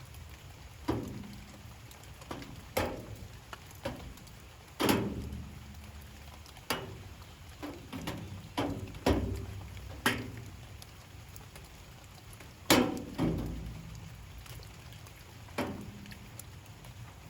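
Light rain: large drops landing irregularly, about one a second, each a sharp tap with a short decay, some leaving a brief low ringing, over a faint steady rain hiss.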